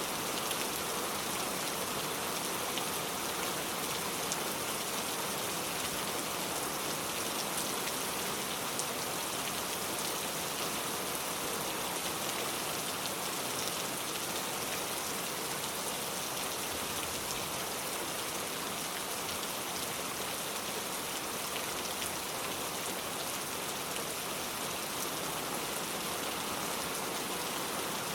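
Steady rain falling on a car, a constant hiss of drops with faint scattered ticks.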